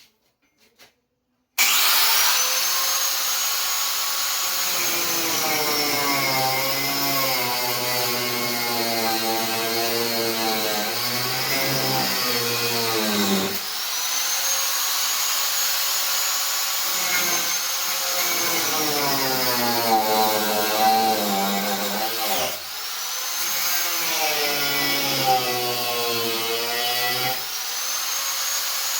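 Handheld electric power tool running and cutting into wood in three long passes with brief dips between, its motor whine sagging and recovering as the cut loads it.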